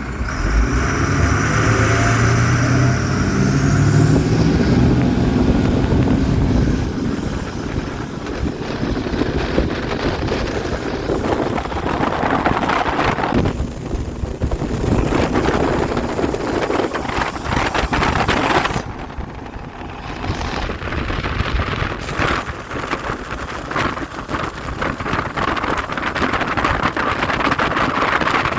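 Speed boat under way at speed, its engines running with a high whine that climbs in pitch about four seconds in as the boat speeds up, then a steady rush of wind and water.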